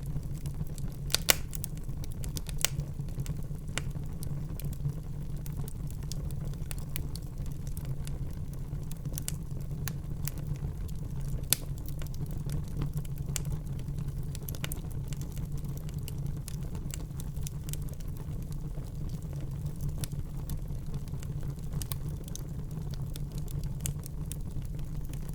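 Wood fire burning in a fireplace: a steady low rumble of flames with scattered sharp crackles and pops, a few louder pops about a second in and again near the middle.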